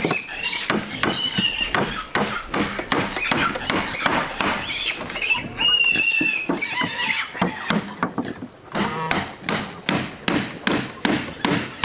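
A fast run of sharp knocks, about three or four a second, with high animal squeals over them now and then.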